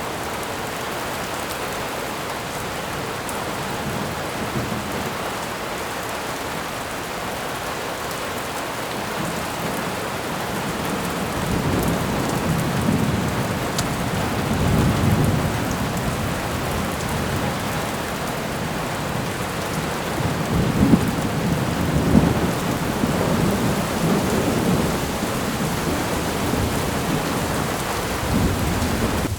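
Thunderstorm: steady rain hiss throughout, with low rolls of thunder rumbling in about a third of the way through and swelling again, loudest about halfway and around two-thirds of the way in.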